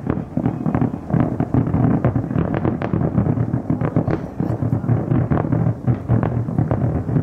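A dense barrage of distant fireworks: rapid, overlapping booms and crackling bursts with no pause between them.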